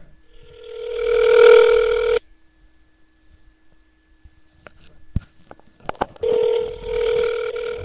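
Telephone ringback tone heard by the caller while the call rings out: two steady two-second rings about four seconds apart, with a few faint clicks between them.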